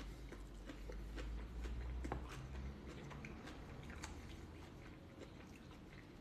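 A person chewing a mouthful of salad close to the microphone, a quiet run of small wet clicks and soft crunches, while a fork picks at the salad in a wooden bowl.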